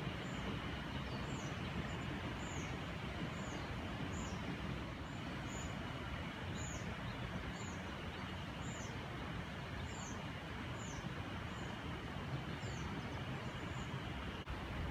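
River water flowing steadily, with a bird repeating a short, high, falling call about once a second.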